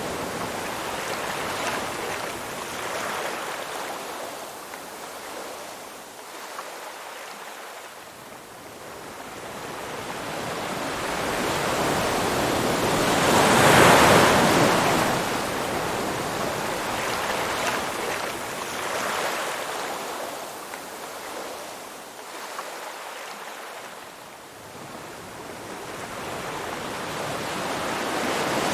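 Ocean surf: a wash of waves that swells and recedes in slow cycles, building to a peak about halfway through, falling away, then building again near the end.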